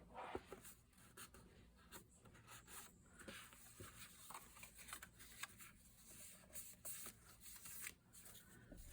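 Faint paper rustling and rubbing with scattered light taps, as a paper tab is handled and pressed onto a mini file folder.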